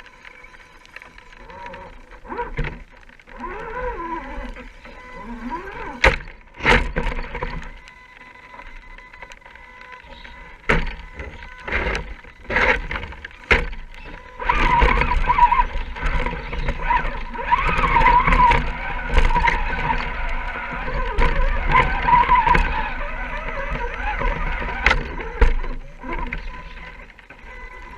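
Scale RC rock crawler's electric motor and drivetrain whining, the pitch rising and falling as the throttle is worked, with several sharp knocks. The whine grows louder and warbles from about halfway through.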